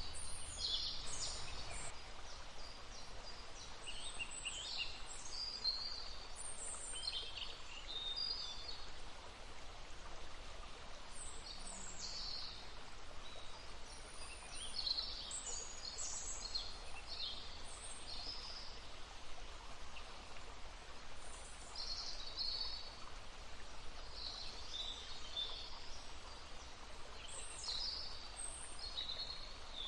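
Small songbirds singing and calling in short phrases, on and off, over the steady rush of a flowing stream.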